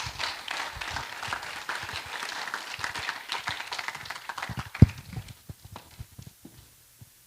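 Congregation applauding, a dense patter of many hands clapping that thins out to scattered claps and taps after about five seconds. A single loud thump stands out near the end of the clapping.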